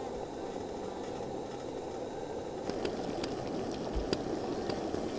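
Campfire crackling: a steady low rushing noise with a few sharp pops from about halfway through.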